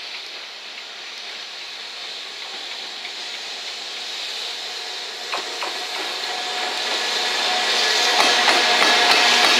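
JR Freight EF210 electric locomotive approaching and passing, hauling container wagons: a steady hiss of the locomotive and its wheels on the rails growing louder throughout. A few sharp clicks of wheels over rail joints come from about five seconds in, and a steady tone sounds as the locomotive goes by near the end.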